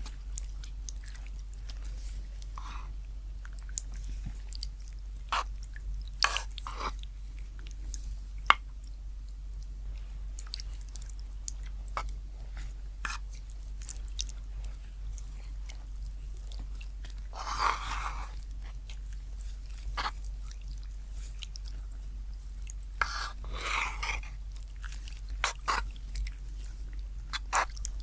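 Close-miked ASMR eating sounds: chewing with scattered sharp wet clicks, and two longer, louder stretches of chewing about a third and two thirds of the way through, over a steady low hum.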